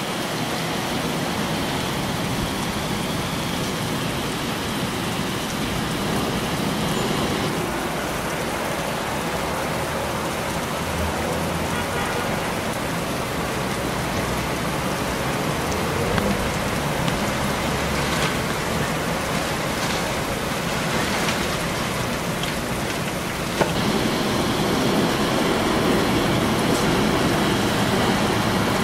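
Heavy rain falling steadily, a dense hiss. About three-quarters of the way through it suddenly gets louder as a deep rumble of thunder sets in.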